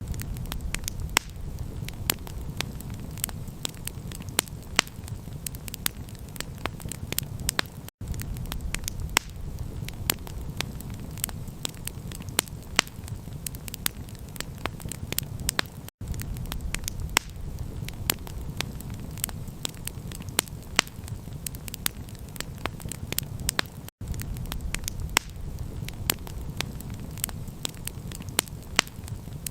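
Campfire crackling: dense, sharp pops and snaps over a steady low rumble, cutting out for an instant about every eight seconds.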